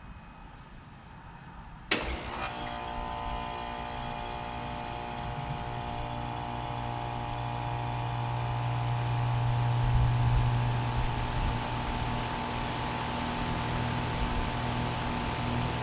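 Carrier Comfort heat pump outdoor unit starting up: a sharp click about two seconds in, then the unit running with a steady hum of several tones and a strong low drone that builds over the next several seconds.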